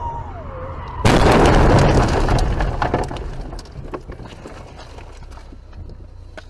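Car collision: a sudden loud crash about a second in, followed by crunching and scattered clinks of debris fading over the next couple of seconds.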